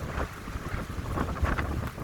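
Gusty wind in pine trees, buffeting the microphone with an uneven low rumble under a rushing hiss that rises and falls.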